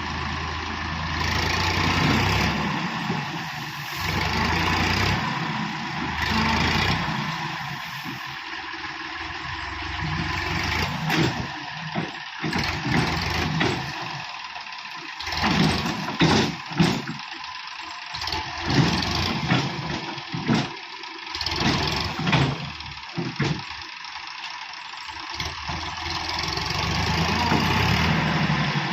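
Heavy vehicle engine running, swelling and easing off. Through the middle it is broken by a run of irregular loud knocks and bangs.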